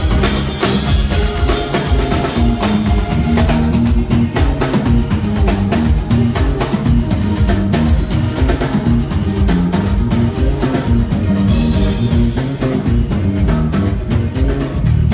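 Live band playing an instrumental groove during a sound check: a drum kit keeps a steady beat under a repeating bass line, with guitar.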